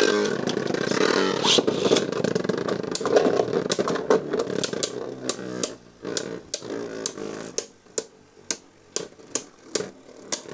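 Beyblade Burst tops spinning and clashing in a plastic stadium, just after launch. A dense whir fills the first few seconds and then fades. From about four seconds in, sharp plastic clacks come roughly twice a second as the tops strike each other.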